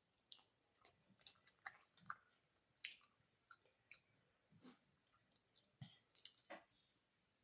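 Close-up eating sounds: a string of small wet clicks and smacks from chewing beef biryani with the mouth, irregular and faint.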